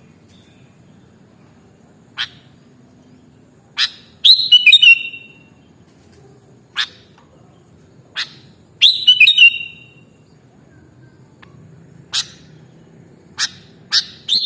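Sooty-headed bulbul (kutilang) calling: short sharp single notes every second or two, with two longer bubbly, chattering phrases about four and nine seconds in.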